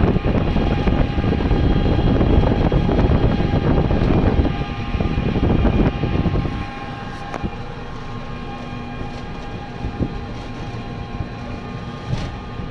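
A vehicle running, with a loud, rough rumble for about the first six seconds that then drops to a quieter, steady engine hum.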